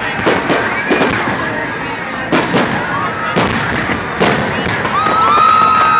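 Aerial fireworks going off in a string of sharp bangs, mixed with whistling tones that slide down in pitch. A steady high whistle starts about five seconds in.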